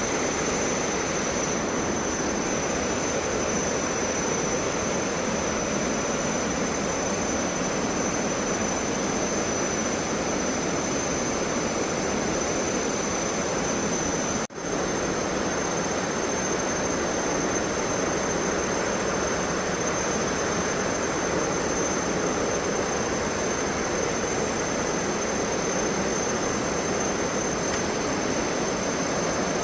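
Steady roar of falling water from Thomson's Falls and the river below it. The roar cuts out for a split second about halfway through, then returns unchanged.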